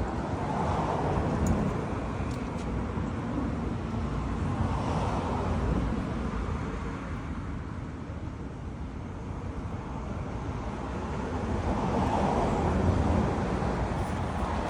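Road traffic noise: a steady rumble of vehicles that swells louder a few times as cars go by.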